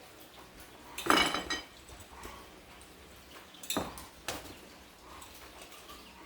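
Metal objects clinking together: a ringing jangle about a second in, then two sharper clinks a little past the middle.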